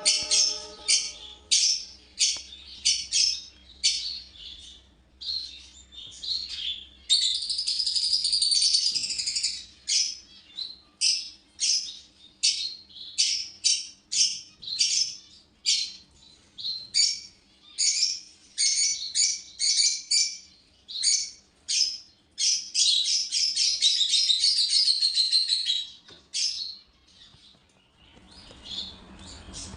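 A flock of small pet birds chirping: a quick run of short, sharp, high-pitched calls, several a second, breaking twice into a longer stretch of continuous chattering, about a third of the way in and again past the middle.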